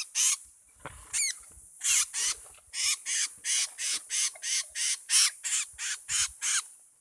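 A bird giving a long run of short, harsh, raspy calls, about three a second, with one brief whistled call about a second in.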